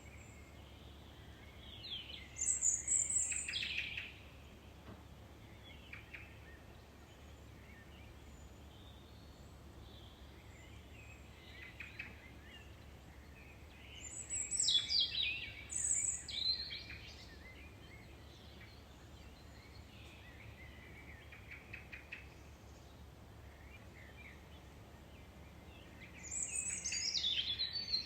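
Songbirds singing: a loud, high-pitched phrase that starts high and falls comes three times, about every twelve seconds, with fainter chirps from other birds in between over a low steady background hum.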